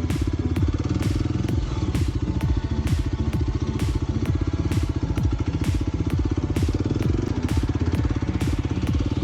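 Kawasaki KLX300's single-cylinder four-stroke engine running steadily under way on a trail ride, with a sharp tick repeating about twice a second over it.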